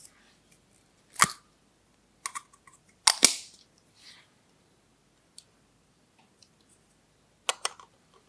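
Hard plastic toy pieces clicking and knocking as they are handled and set down: a handful of sharp clacks with quiet gaps between, the loudest a double knock about three seconds in.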